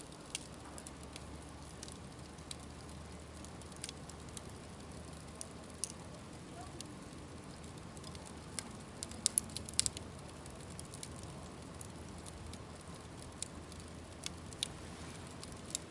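Wood campfire burning: a steady low hiss with irregular sharp crackles and pops, and a quick run of louder pops about two thirds of the way through.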